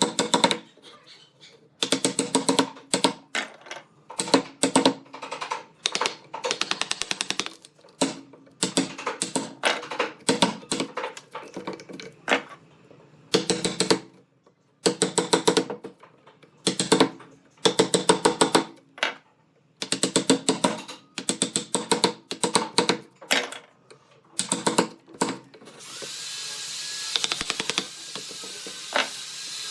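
A power tool run in many short bursts, each a rapid clicking buzz, stopping and starting again and again. Near the end a steady hiss starts up under it.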